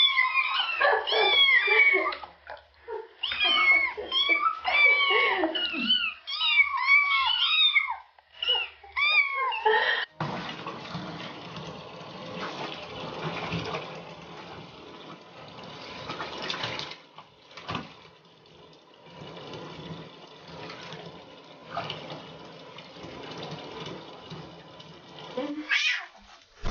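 A litter of kittens mewing, many high, overlapping cries, for about the first ten seconds. After that the mewing gives way to a steady hiss with scattered knocks, and a few short mews come again near the end.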